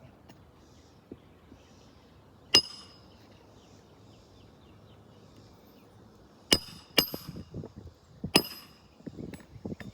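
Hammer striking metal four times with a bright, briefly ringing clink: one hit, then three more close together a few seconds later. Softer scuffing and knocking follow near the end.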